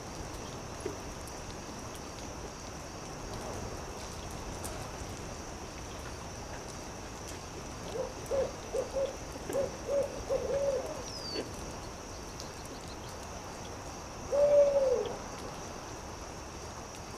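Owl hooting: a quick run of about seven short hoots, then after a pause one longer, louder hoot that falls in pitch. Underneath is a steady faint hiss with a few soft campfire crackles.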